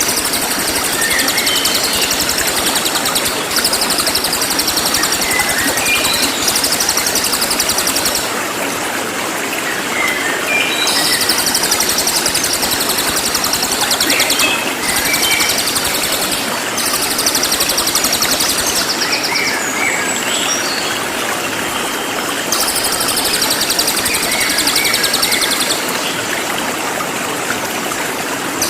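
Cililin songbird singing loud, rapid, high-pitched 'nembak' trills in bursts of a few seconds each, with short chirping notes in between, over a steady hiss.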